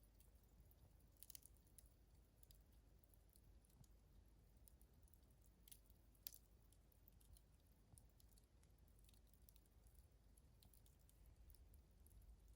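Faint, scattered crackles and ticks from a wood fire burning low toward embers, over near silence, with one slightly sharper pop about six seconds in.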